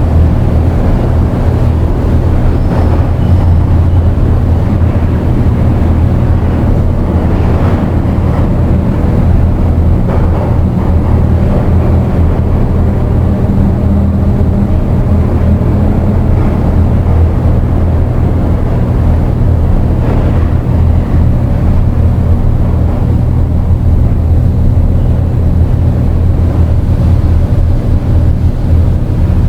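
Dark ambient drone and noise music: a loud, dense low drone of steady held bass tones with a haze of noise above it, unchanging throughout.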